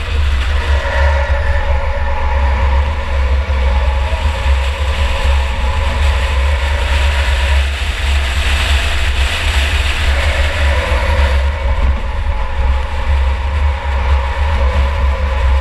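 2004 Chevy Impala enduro car's engine running hard with a heavy low rumble, its note falling and climbing again a couple of times as it drives around the track, heard from inside the car.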